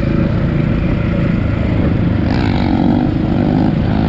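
Dirt bike engine running steadily under way, its note changing a little past halfway.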